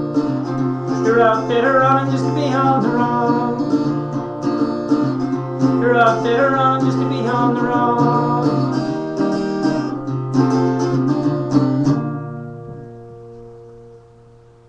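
Acoustic guitar strummed through the closing instrumental of the song. A last chord is struck about twelve seconds in and left ringing, fading away toward the end.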